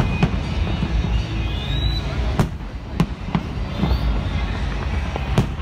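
Fireworks display going off: about half a dozen sharp bangs at irregular intervals over a dense low rumble of further distant bursts.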